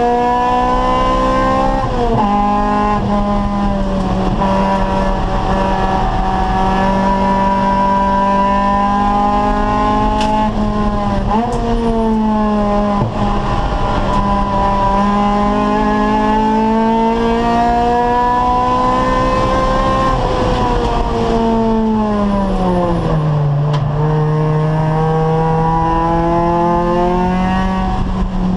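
Acura Integra race car's four-cylinder VTEC engine running hard on track. Its pitch climbs steadily under acceleration, breaks sharply about 2 and 11 seconds in, sinks over a few seconds near the end, then climbs again.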